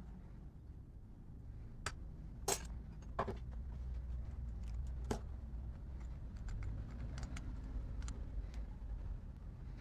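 Small metal parts and tools being handled, with a few sharper clicks and knocks among lighter ticking and rattling, over a low hum.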